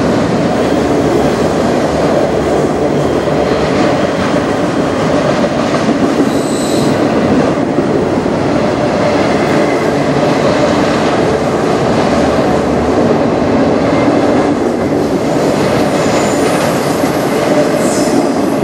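Freight train of autorack cars rolling past, a steady rumble of steel wheels on rail. Short high wheel squeals come about six seconds in and again near the end.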